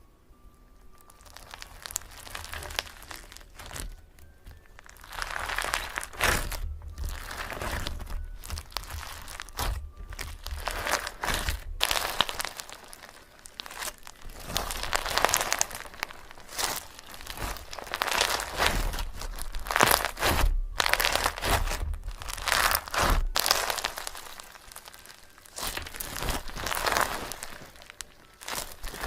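Close crinkling and rustling of dry material, in uneven bursts a second or two long with short gaps between them.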